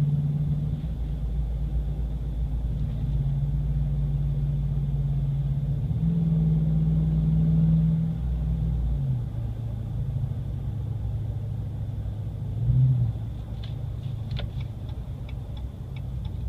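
6.4-litre Hemi V8 exhaust of a 2014 Ram 2500, with a 40 series Flowmaster muffler and the resonator deleted, heard from inside the cab while driving: a deep, steady drone that shifts with the throttle and drops in pitch about eight seconds in. A regular ticking starts near the end.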